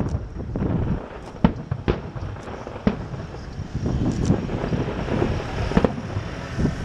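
Aerial fireworks shells bursting, a continuous rolling rumble of booms with several sharp cracks among them.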